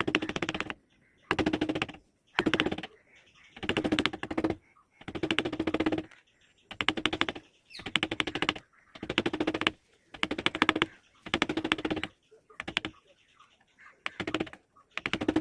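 A hand tool rasping or scraping over teak wood in regular strokes, about one a second, each stroke a rapid rattle of fine clicks.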